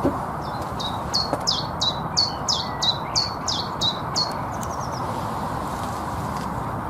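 A songbird singing a quick series of about a dozen repeated high notes, each falling in pitch, over a steady background hiss, with one sharp click at the very start.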